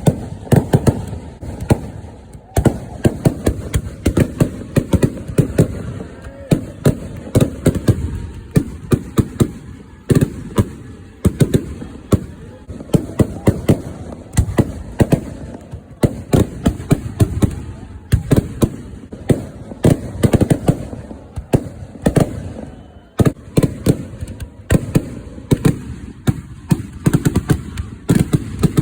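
Kerala temple-festival fireworks (vedikettu) going off in a dense, continuous barrage: rapid overlapping cracks and bangs, many each second.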